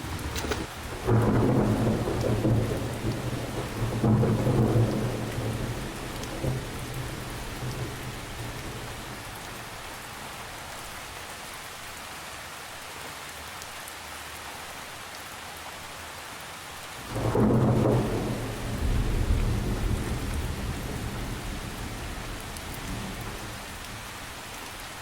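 Steady rain falling, with two long low rolls of thunder: the first begins about a second in and swells twice before fading, the second comes about two-thirds of the way through and dies away.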